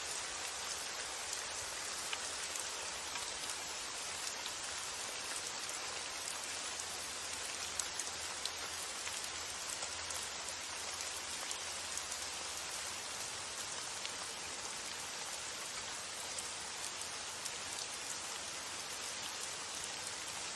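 Steady rain falling, an even hiss of rain with the tiny ticks of single drops landing.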